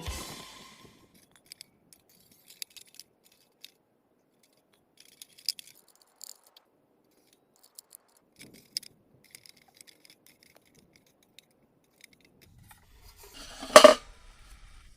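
Light metallic clicks, taps and scrapes of stovepipe sections being fitted into the body of a Winnerwell Nomad camping stove, with one louder clank-scrape near the end as they go in.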